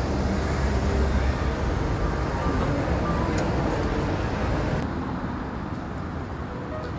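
Steady low rumble of vehicle noise, with a sudden change about five seconds in to a quieter, thinner background.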